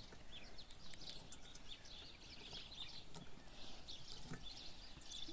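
Faint chirping of small birds: many short, scattered calls over a quiet, steady outdoor background.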